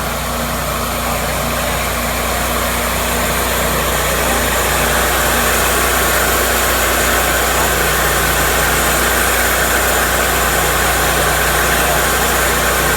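Cook's MP-32 bandsaw sawmill running with its engine steady, under a rushing noise that grows louder about four seconds in.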